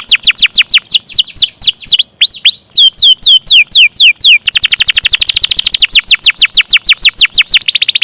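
Domestic canary singing a long roll: rapid trills of sharp, downward-sweeping whistled notes. The trill slows around the middle, then turns faster and denser from about halfway in.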